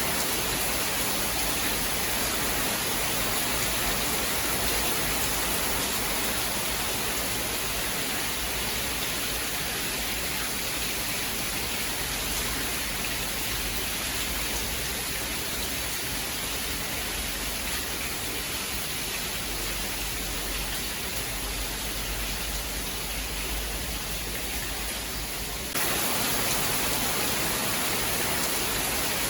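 Steady, dense rain hiss, with a sudden small jump in loudness about 26 seconds in.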